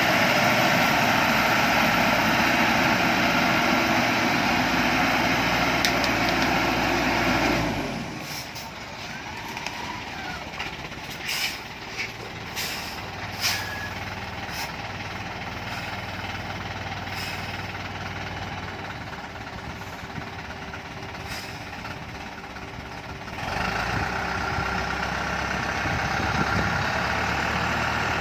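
Dongfeng truck's diesel engine running hard under load. About eight seconds in it drops back to a quieter run for about fifteen seconds, with a few short sharp sounds, then works hard again near the end.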